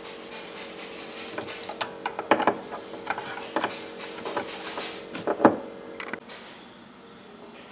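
A series of sharp clicks and knocks over a steady hum that cuts off about six seconds in.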